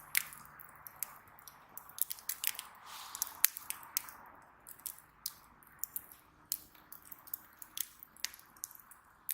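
Wood fire burning, crackling with irregular sharp pops several times a second over a soft hiss; the loudest pop comes about three and a half seconds in.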